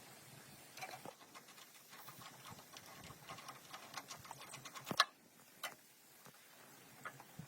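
Faint, irregular small clicks and light taps, the sharpest about five seconds in.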